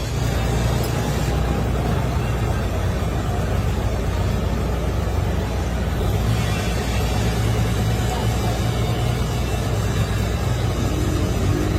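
Machinery running steadily with a low hum and a constant even noise.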